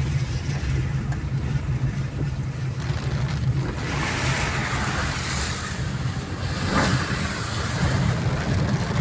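Car driving on a wet road, with a steady low engine and road drone. About four seconds in, a louder rushing hiss of rain and wet tyres joins it.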